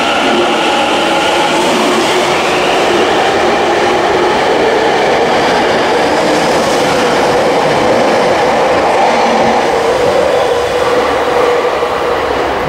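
Subway train pulling out of an underground station, with a pitched whine at first over a steady rush of wheel and running noise. The noise eases near the end as the last car clears the platform.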